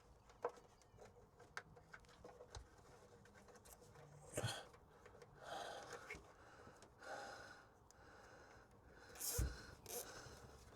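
Quiet handling noises as a fuel line is fed along and cable-tied: a few small sharp clicks in the first couple of seconds, then several short soft rustling swells, with some breathing.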